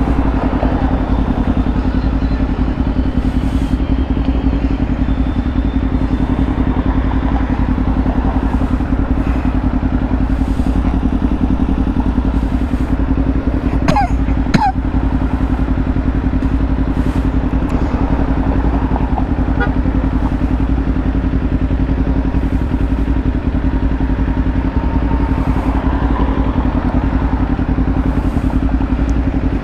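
Kawasaki Ninja 500's parallel-twin engine running steadily while riding at a constant pace, with low wind rumble on the helmet-mounted microphone. A brief pair of sharp sounds comes about halfway through.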